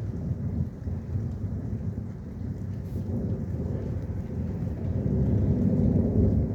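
Thunder rumbling in a rainstorm, a low rolling rumble that swells louder near the end.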